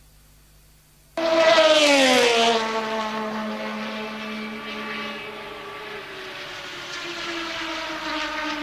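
A 1983 Formula One car's engine comes in suddenly after about a second of near silence, loud and high-pitched as it goes by, its pitch falling over about a second. A steadier engine note follows and rises slightly near the end.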